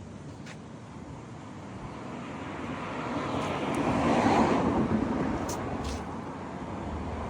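A car driving past on the street: its tyre and engine noise grows to a peak about four seconds in and fades away, and another vehicle starts approaching near the end.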